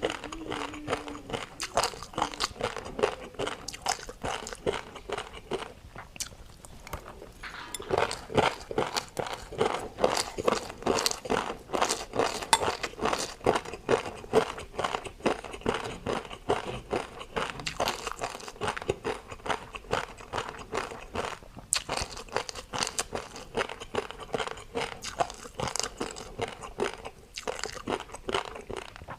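Close-miked eating: a person biting and chewing, with a dense run of crunchy, clicky mouth sounds and a short lull about six seconds in.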